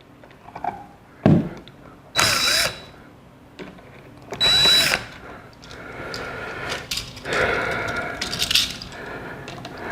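Cordless drill-driver run in two short bursts, about two seconds in and again about four and a half seconds in, each with a quick whine up and down in pitch. A sharp click comes just over a second in.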